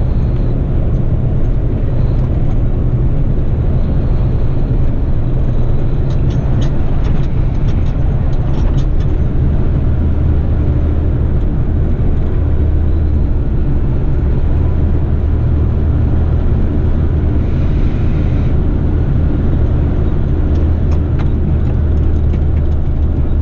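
Heavy eight-wheeler twin-steer rigid truck's diesel engine running steadily on the road, a deep continuous drone with road noise, and a few scattered light clicks.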